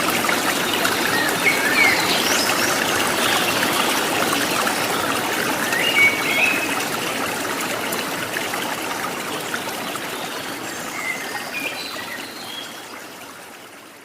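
A running stream trickling steadily, with a few short bird chirps about two seconds in, around the middle and near the end; the whole sound slowly fades out toward the end.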